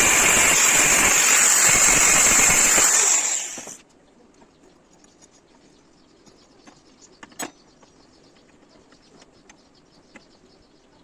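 A loud power tool running steadily, then switched off about three seconds in and dying away within a second. After that only faint scattered clicks and one sharper tap, like light handling of metal parts.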